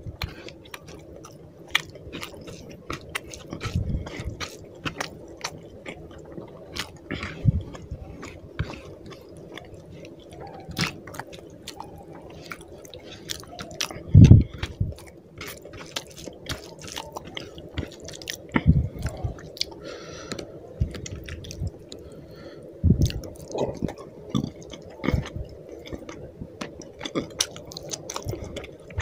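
Close-miked chewing and wet mouth clicks of a person eating rupchanda fish curry and rice by hand, with squelching of the curry-soaked rice being worked in the fingers. Several dull thumps come through, the loudest about halfway, over a steady low hum.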